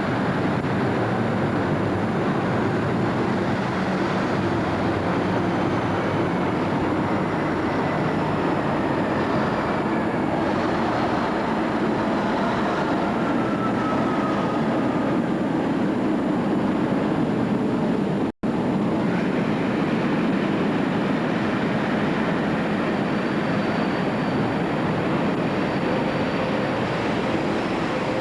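Class 37 diesel-electric locomotive with its English Electric V12 engine, running steadily as it pulls into a station, with a faint falling whine over the engine noise. The sound drops out for a split second about two-thirds of the way through.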